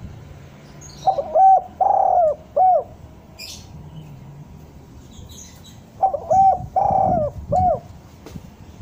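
Spotted dove cooing: two phrases a few seconds apart, each a run of four or five notes with a longer note in the middle. Faint high chirps of small birds in between.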